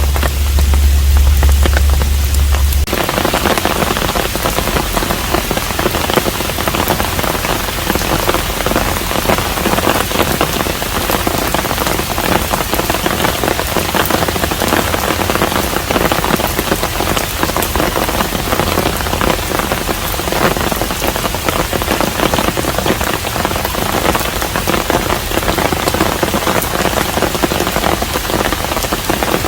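Steady rain falling and pattering on surfaces, a dense even hiss of drops. A low hum underneath stops about three seconds in, and from then on the rain sounds fuller.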